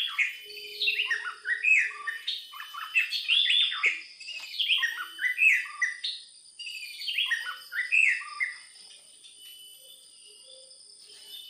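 A songbird singing a fast, continuous run of short chirps and trills, dropping away about eight and a half seconds in.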